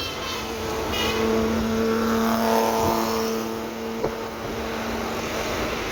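Suzuki Alto's converted K6A 660cc three-cylinder engine running with a steady note that swells a little about a second in and then holds; the engine is judged to be running well after the conversion. A single click about four seconds in.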